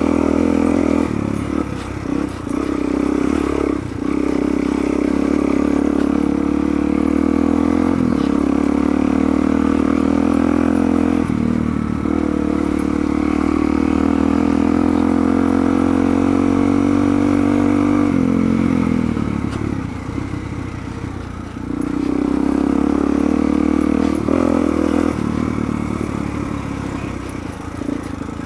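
Suzuki DR-Z400's single-cylinder four-stroke engine pulling steadily under throttle. The throttle is rolled off a few times, the engine dropping in level and pitch each time, longest about two thirds of the way in.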